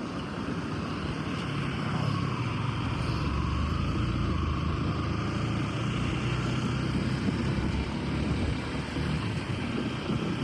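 A motor vehicle's engine running steadily, a low hum under a constant rush of noise.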